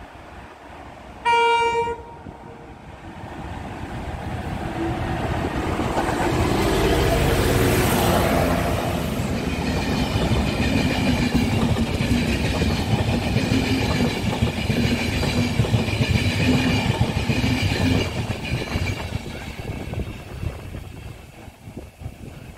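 Enterprise passenger train sounding one short horn blast about a second in, then running through the station: its rumble builds to its loudest around eight seconds, carries on with wheels clattering over the rails and a steady hum, and fades away near the end.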